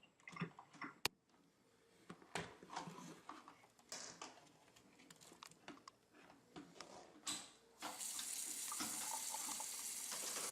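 Scattered small clicks and knocks of handling, then about eight seconds in a tap runs steadily into a sink: the vacuum's upper filter being rinsed under running water.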